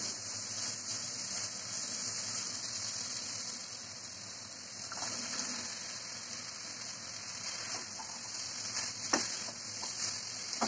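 Oil sizzling steadily in a wok where spiced dried Bombay duck and freshly added chopped vegetables are frying, the masala cooked down until the oil has separated. A wooden spatula stirs the pan, with a couple of sharp scrapes or knocks near the end.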